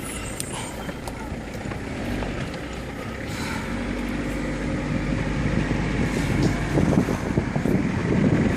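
Car driving: steady engine and road rumble that grows louder toward the end.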